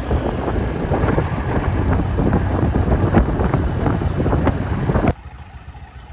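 Heavy wind buffeting the microphone over the road noise of a moving vehicle. It cuts off abruptly about five seconds in, leaving a much quieter background.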